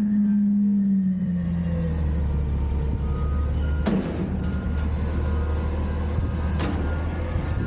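Autocar/Heil Freedom front-loader garbage truck running: a steady hum drops in pitch and fades over the first second or so, leaving a low engine rumble. Two sharp noises cut in about four and seven seconds in.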